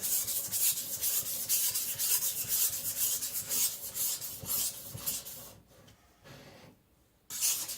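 Cleaver blade being ground on a whetstone under heavy pressure: quick, repeated back-and-forth rasping strokes as steel is removed to thin the edge. The strokes stop about five and a half seconds in and start again near the end.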